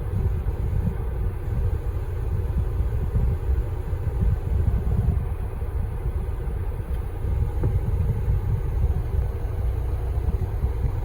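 Log truck's diesel engine running with a steady low rumble.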